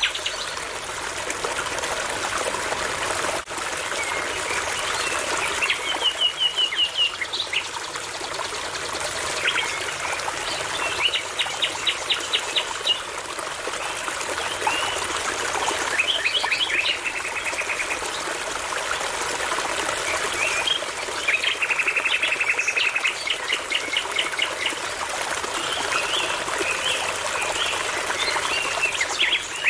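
A babbling brook running steadily, with songbirds singing over it: short phrases of rapid, even trills every few seconds and scattered chirps in between.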